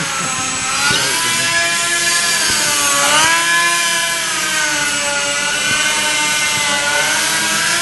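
Small indoor RC model airplane's electric motor and propeller whining, the pitch swooping up and down again and again as the throttle is worked.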